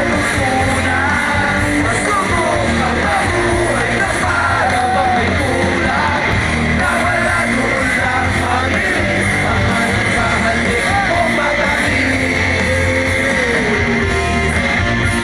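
Live rock music: a rock band playing loud guitar-driven music with a singer and yells over it.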